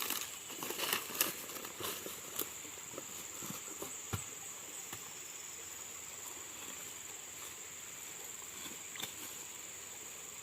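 Rustling and crackling of dry leaves and twigs underfoot for the first few seconds, with one dull thump about four seconds in, over a steady high-pitched whine.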